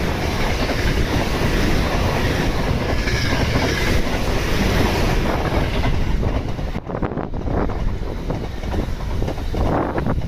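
Electric commuter trains passing close by at speed: a steady rumble of wheels on rail, with rhythmic clatter over the rail joints. The sound changes about seven seconds in, as a second train passes and the clatter becomes plainer.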